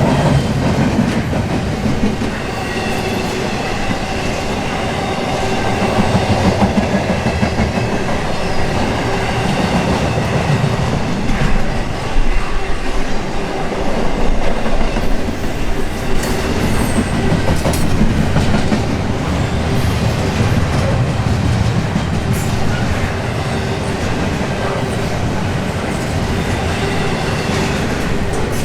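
Intermodal freight cars rolling steadily past, with a continuous rumble and irregular clacks of wheels over rail joints, busiest about halfway through.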